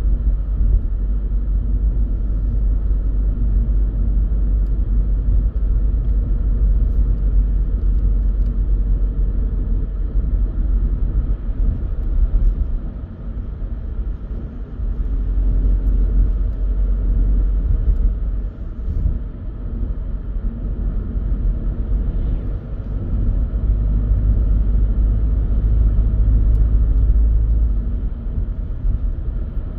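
A car driving, heard as a steady low rumble of road and engine noise that eases off briefly a few times.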